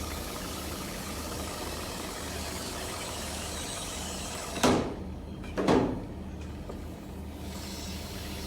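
A steady mechanical hum, broken a little past the middle by two loud knocks about a second apart.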